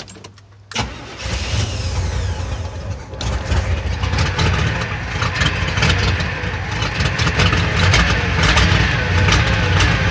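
Chevrolet Monte Carlo cold-started after sitting through the winter. A few clicks, then the starter cranks about a second in, and the engine catches and runs louder and unevenly from about three seconds in.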